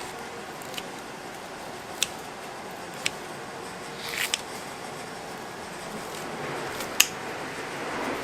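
A handful of short, sharp clicks and clinks of metal tableware, spread irregularly over a steady background hum, the loudest near the end.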